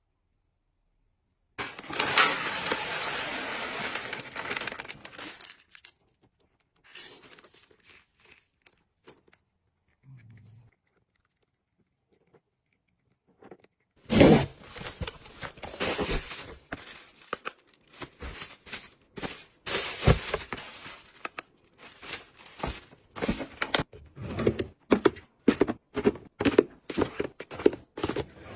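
Close handling noises: a long tearing or rustling rush near the start, then after a pause a busy run of sharp crinkles, clicks and taps.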